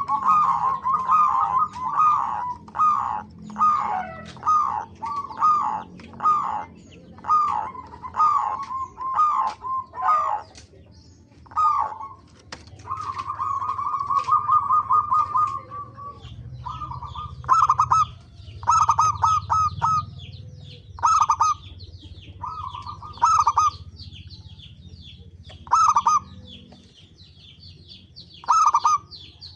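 Zebra doves (perkutut) cooing in runs of quick staccato notes, almost without pause for the first ten seconds, then in short bursts every couple of seconds. Smaller birds chirp thinly in the second half.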